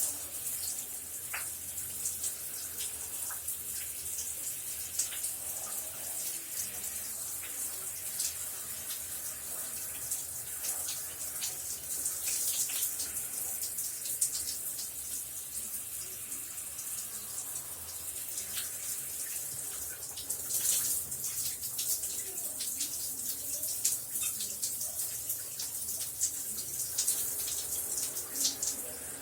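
Shower running steadily: a constant hiss of spray with many small splashes and patters of falling water.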